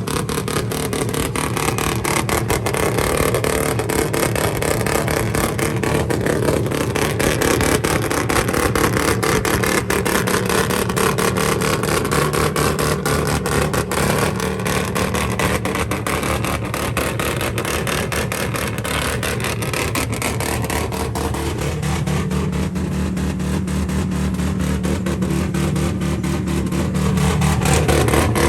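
Motor vehicle engines running steadily with a low, even drone; about two-thirds of the way through the engine note shifts higher and gets stronger.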